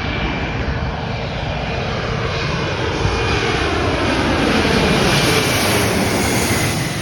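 Jet airliner passing overhead, its engine noise swelling to a peak about five seconds in and then easing off, with a whine that glides downward in pitch as it goes by.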